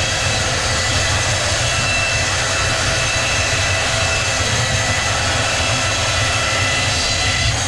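Sawmill machinery running steadily: a continuous loud drone with a low hum and thin high whining tones.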